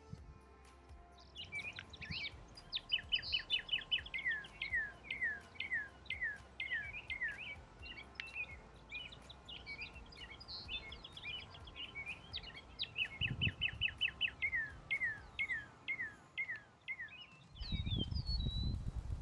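Songbirds singing: a long, steady run of short down-slurred whistled notes mixed with quick stuttered trills. Near the end a low rumble of handling noise comes in.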